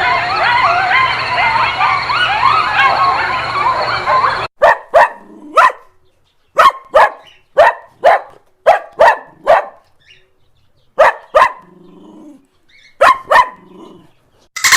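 A dense chatter of quick, high, squeaky calls that cuts off about four seconds in, then a dog barking: about a dozen sharp barks in quick runs with short pauses between.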